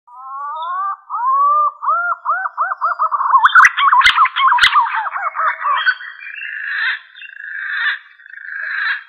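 Green pigeon (punai) song used as a hunting lure call: whistled notes that begin as rising slurs, quicken into a string of short arched whistles, and end in longer wavering whistles. Two sharp clicks come about four seconds in.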